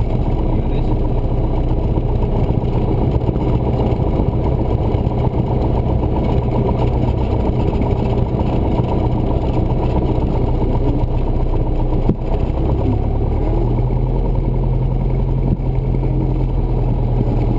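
Cessna 172's piston engine and propeller running steadily, heard inside the cabin, with a slight change in the engine note about thirteen seconds in.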